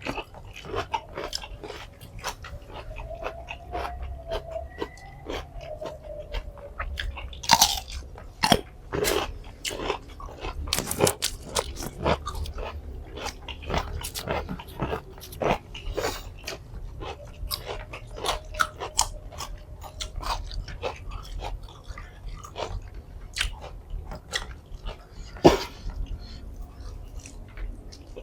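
Close-miked mouth sounds of a person eating nasi padang: chewing and biting, with many short, irregular clicks and smacks.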